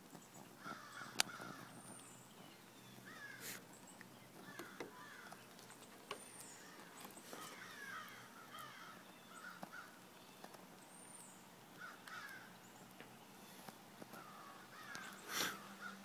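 Faint outdoor bird calls repeating every second or so. A sharp click comes about a second in, and a louder knock near the end.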